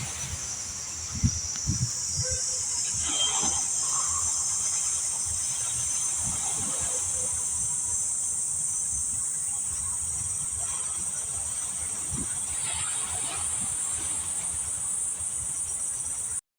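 Steady high-pitched chorus of insects, with a few low thumps in the first couple of seconds; it cuts off suddenly near the end.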